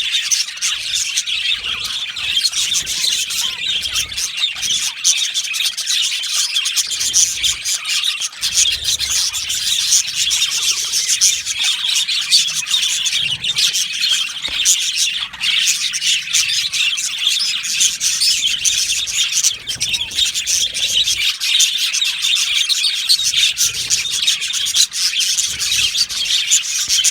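Many budgerigars chirping and chattering at once in a dense, unbroken stream of high, overlapping calls.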